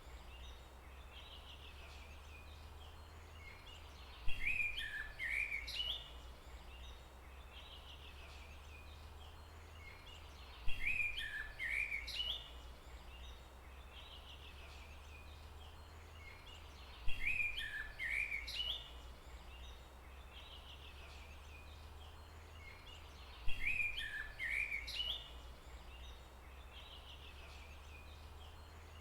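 A songbird singing a short phrase of quick chirping notes, the same phrase returning about every six seconds, four times, over a steady low rumble of forest ambience.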